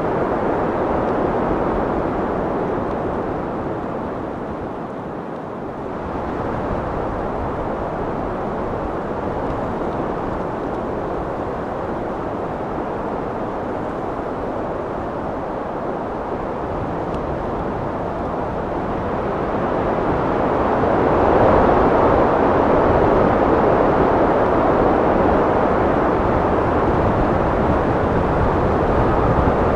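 Wind blowing in a steady rush, easing off about five seconds in, then building into a louder gust about two-thirds of the way through.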